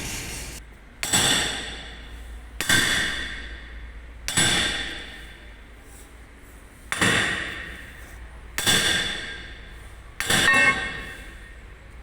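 A hammer striking steel: six hard blows, each followed by a ringing metallic tail that fades over about a second, spaced roughly one and a half to two and a half seconds apart. A steady rushing noise cuts off about half a second in, before the first blow.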